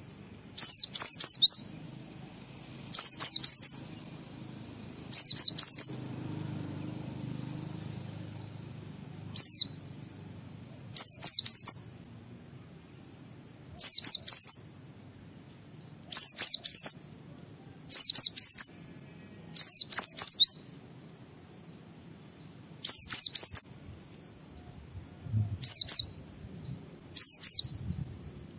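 White-eye (pleci) singing: short, high-pitched chirping phrases, many in quick pairs, repeated about every two seconds.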